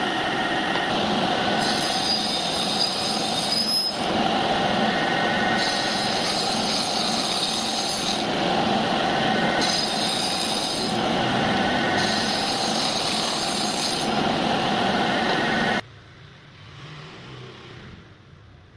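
Handheld electric power tool running on wood, a loud steady grinding noise with a high whine that comes and goes every couple of seconds. It stops abruptly near the end.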